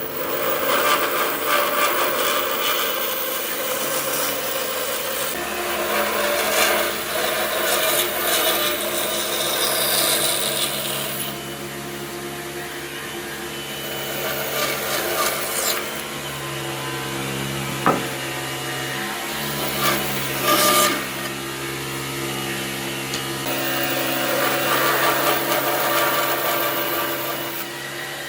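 A power tool working wood: a steady motor hum that shifts pitch a few times, under a rough rasping of the tool against the wood. One sharp click about two thirds of the way through.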